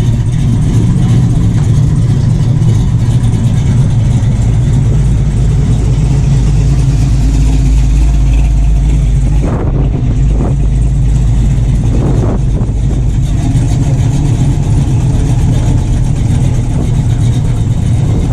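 A car engine idling close by with a loud, steady low rumble that sounds good. There are a few short sounds about halfway through.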